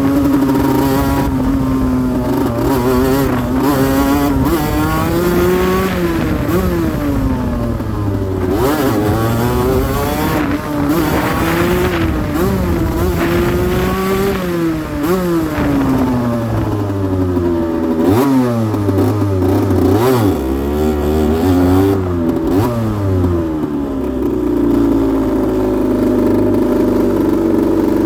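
2008 Aprilia RS125's single-cylinder two-stroke engine revving up and down over and over, its pitch rising and falling every second or two, then running at a steadier speed for the last few seconds.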